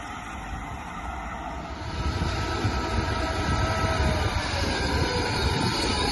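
Train approaching on the rails, its rumble growing louder from about two seconds in, with a faint steady whine over it.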